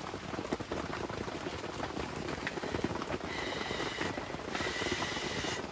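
Heavy rain pattering steadily, a dense fine crackle; from about three seconds in, a faint steady high whine sounds over it.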